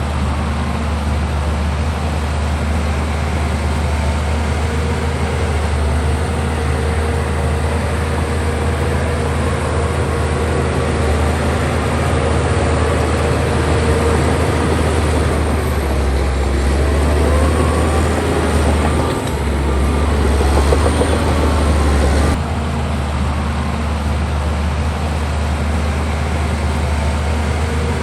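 Heavy diesel engine of earthmoving machinery, likely a bulldozer, running steadily under load. For several seconds past the middle, squealing and rattling are added, and the sound changes abruptly about three-quarters of the way through.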